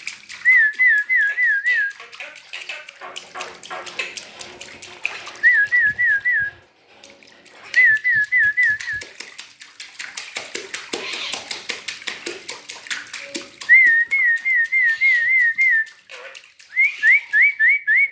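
Quick runs of four to six short, falling whistled notes, repeated about five times; the last run rises instead. Light splashing and clicking of water runs underneath, from a pet starling bathing.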